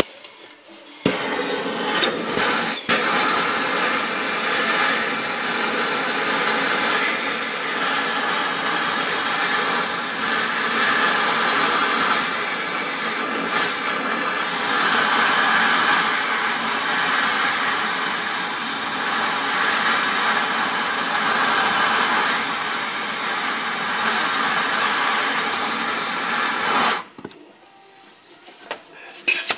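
A motor running steadily, starting about a second in and cutting off suddenly a couple of seconds before the end.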